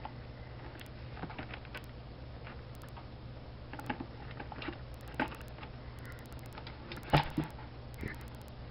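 Kitten playing in a plastic bucket: scattered light taps and scratches, with a sharper knock about seven seconds in, over a steady low hum.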